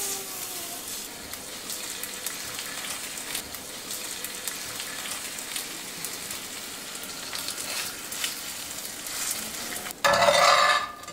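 Vegetable pancake batter sizzling in a hot cast iron skillet, a steady hiss with small crackles. Near the end comes a much louder rasp of about a second as a spatula works under the pancake.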